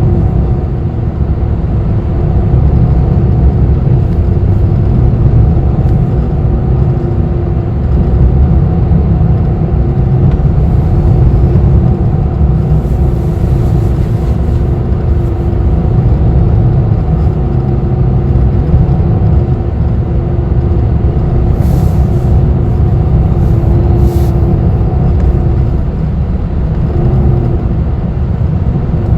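Interior of a city bus in motion: a steady low engine and road rumble with a hum that rises and fades, and a few short hisses, including two close together about 22 and 24 seconds in.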